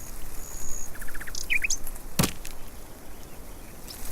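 Small birds chirping outdoors, with a thin high whistle in the first second and a quick burst of chirps at about a second and a half. One sharp knock a little over two seconds in.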